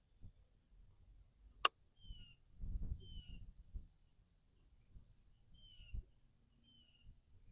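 A bird calling four times, each a short high note sliding downward. A single sharp click about a second and a half in, and low dull knocks and rumbles in between.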